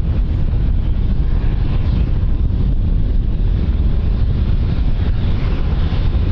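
Wind buffeting the microphone, a loud, steady rumble with uneven gusty fluctuation.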